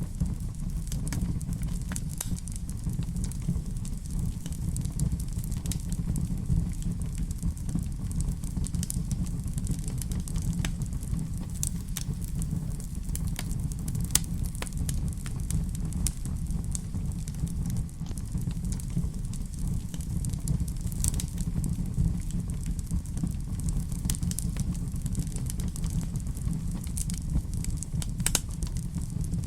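Fireplace wood fire burning: a steady low rumble of flame with scattered sharp crackles and pops throughout.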